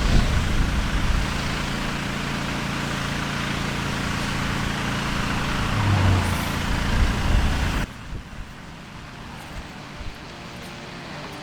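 Engine-driven pressure washer running while a high-pressure water jet rinses block paving, a steady hiss of spray over the engine's drone. Close to eight seconds in it cuts off abruptly, and quieter background music follows.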